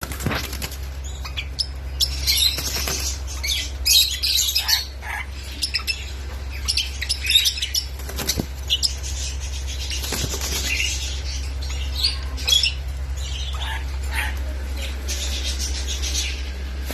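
Parrot chirping and squawking in short, irregular high-pitched calls, over a steady low hum.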